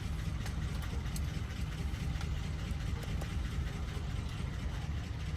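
An engine idling: a steady low rumble, with a few faint clicks over it.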